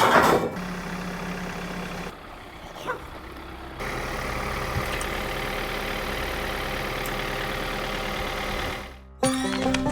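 Tractor engine running steadily, heard in a few short clips that cut into one another, with a loud burst at the very start; music with distinct stepped notes starts about nine seconds in.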